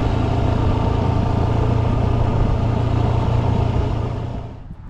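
A dirt bike engine runs steadily, then dies away near the end.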